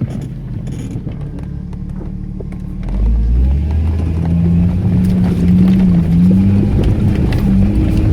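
Off-road vehicle engine running under load. It gets louder about three seconds in, and its pitch then rises and falls as it is revved.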